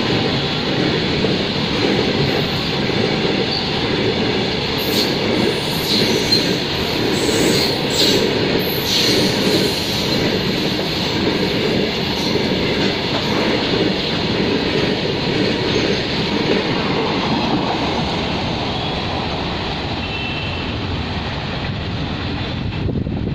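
Freight train of covered goods wagons running past at speed: a steady loud rumble of steel wheels on the rails, with brief high-pitched wheel squeals several times between about five and nine seconds in.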